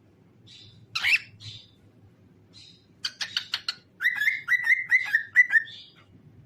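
Cockatiel singing. It gives a few short chirps and a loud squawk about a second in, then a quick chattering run followed by a string of about six rapid repeated notes.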